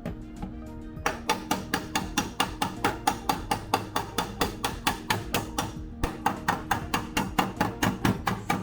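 Hammer rapidly striking sheet-steel body panel, an even run of sharp knocks about four or five a second starting about a second in, over background music.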